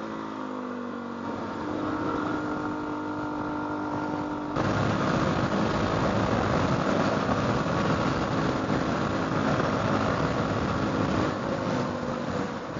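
Motorcycle engine on the move, its revs falling over the first second and then holding steady. About four and a half seconds in, a louder rushing noise comes in abruptly and largely covers it.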